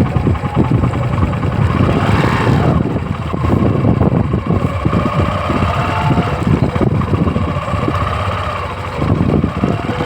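Tractor engine running steadily, with a brief rising sweep about two seconds in.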